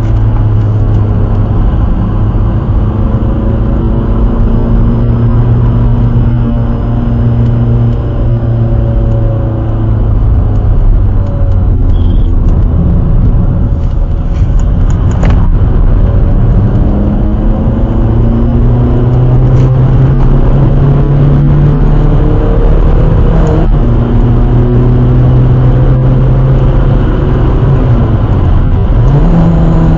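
Skoda Fabia vRS's 1.9 TDI diesel engine heard from inside the cabin while lapping a circuit. The revs rise and fall repeatedly through gear changes and corners, over steady road and wind noise.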